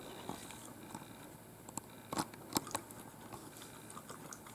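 A dog chewing and crunching dry food, with a few sharp crunches about two to three seconds in.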